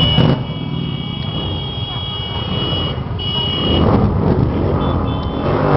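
Motorcycles running as they pass in a procession, with a steady low engine rumble and engines revving near the end. A steady high-pitched tone sounds over them and stops about four seconds in.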